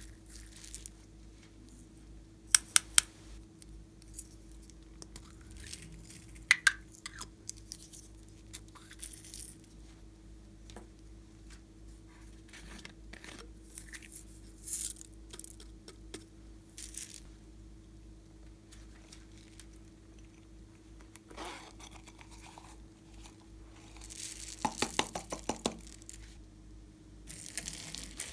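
Hands kneading and stretching slime: soft sticky crackles and scrapes, with a few clusters of sharp pops, the loudest about three seconds in, near seven seconds and near the end. A faint steady hum runs underneath.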